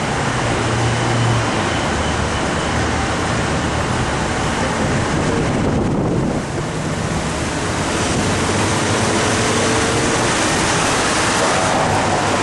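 Loud steady rushing of wind and road noise around a car, with a low hum underneath; the hiss eases briefly about six seconds in.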